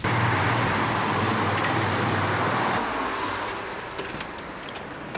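A motor vehicle's engine running close by in road traffic, a steady low hum under tyre and engine noise that fades away after about three seconds.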